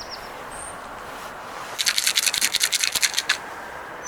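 A burst of rapid scratchy rustling in the middle, about ten strokes a second for a second and a half. A short, faint high chirp falls in pitch near the start and again near the end.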